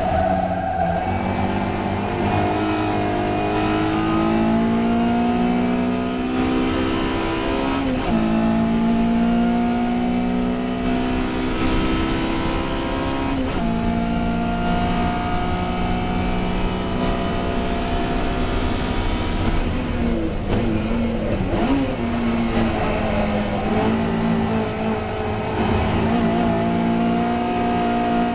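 Touring car's racing engine at full throttle, its pitch climbing through the revs with sharp drops at upshifts about 8 and 13 seconds in. Around 20 seconds in the revs break up and fall while slowing for a corner, then climb again as the car accelerates out.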